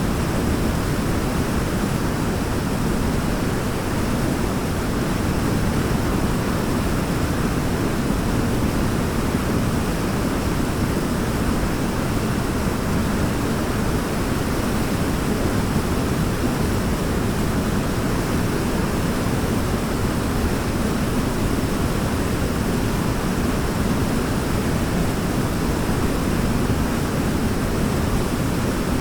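Waterfall: water falling and splashing in a steady, deep rush with no breaks.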